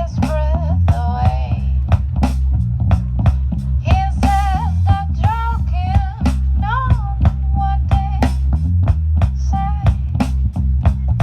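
A rock band playing live: drum kit, bass guitar and guitar, with a bending, sustained lead melody line over a heavy bass part and steady drum beat.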